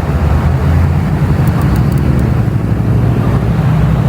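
Motor vehicle engine running with a steady low rumble, amid road traffic noise.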